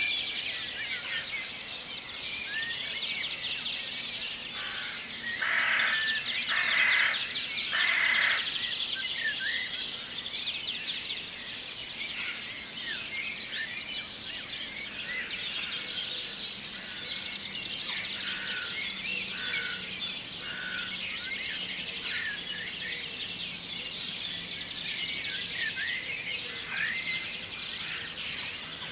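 Morning chorus of many songbirds, dense overlapping chirps and trills throughout, with three louder, lower calls in a row about six seconds in.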